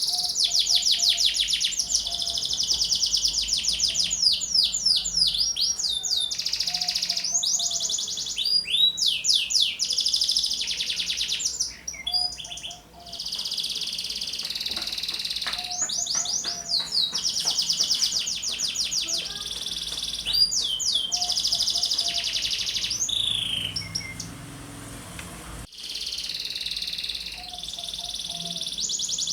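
Domestic canary singing continuously in long, fast trills and rolls mixed with quick sweeping notes, pausing briefly about twelve seconds in and dropping out for a moment near the end.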